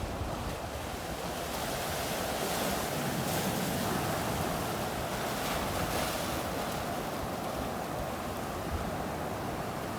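Ocean surf breaking and washing up a sandy beach, a steady rushing that swells a few seconds in and slowly eases, with wind buffeting the microphone.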